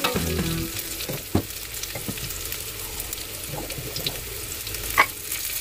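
Chopped shallots, garlic and bird's eye chilies sizzling steadily in hot oil in a wok. Two sharp knocks sound over it, one about a second and a half in and a louder one near the end.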